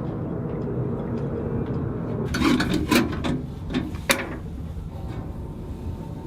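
Knocks and clatter of things being handled in a small boat's galley while coffee is made, several sharp ones bunched near the middle, over a steady low rumble.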